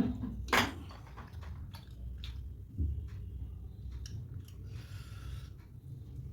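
Close-mic eating sounds: a person chewing soft poori with wet curry, with scattered small clicks and two louder knocks in the first second.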